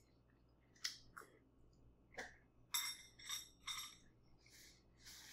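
A person chewing a mouthful of beef hot pot: a faint string of short, wet mouth smacks and clicks, spaced irregularly.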